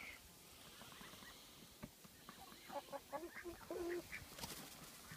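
Backyard chickens and ducks giving faint, short clucking calls, scattered through, with one slightly longer call about four seconds in.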